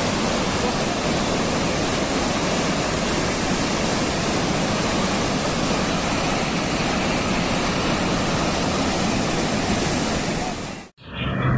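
A steady rushing roar of churning water that cuts off abruptly near the end.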